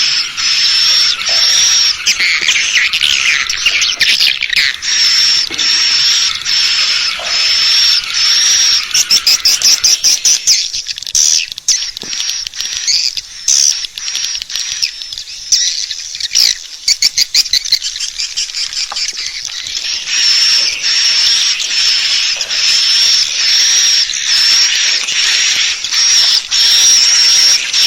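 Swiftlet calls from a swiftlet-house lure recording: dense high twittering with a sharp chirp repeating about every half second. Bursts of rapid clicks come around ten seconds in and again around seventeen seconds in.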